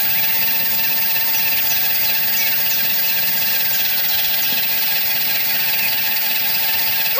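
Small electric water pump motor of a toy fire truck running steadily as it sprays water, with a continuous whirring.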